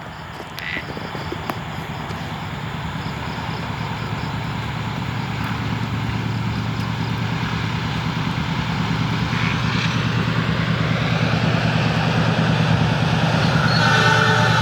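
An approaching train: a steady low hum that grows gradually louder as it nears, the odd sound heard before a train passes. A train horn starts sounding just before the end.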